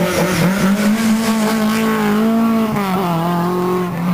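Lada rally car's engine running hard at high revs as it comes along a gravel stage. The engine note holds steady, then drops in pitch a little under three seconds in.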